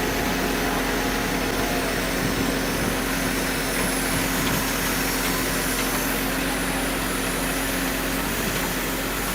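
An engine running steadily with a constant hum, no revving.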